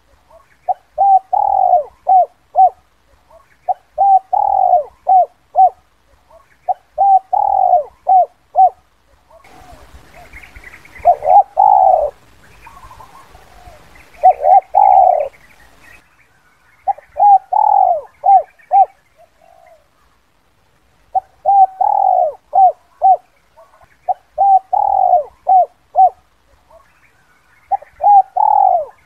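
Spotted dove (Spilopelia chinensis) cooing its 'kuk 2' call: a phrase repeated about every three seconds, each a longer coo followed by a few short notes. Through the middle there is a faint background hiss and some higher chirping.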